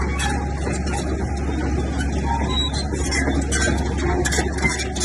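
Bulldozer's diesel engine running steadily with a deep, constant drone, and irregular metallic clanking and rattling over it.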